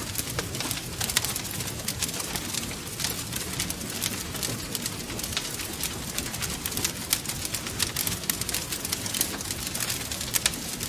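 Wood fire crackling and popping: many quick, sharp snaps at irregular intervals over a steady low rumble of the burning logs.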